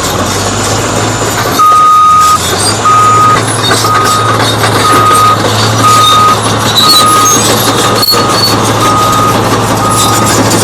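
Caterpillar D8T bulldozer's diesel engine running steadily while its reverse alarm beeps about once a second, starting about a second and a half in: the dozer is backing up.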